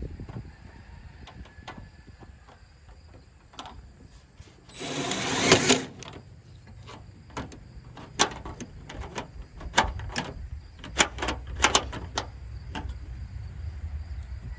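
Metal clicks and clanks from slide deadbolts being worked on a homemade sheet-metal tailgate. A rough burst of about a second comes some five seconds in, then a run of sharp knocks and snaps as the bolts are slid and the latch is tested.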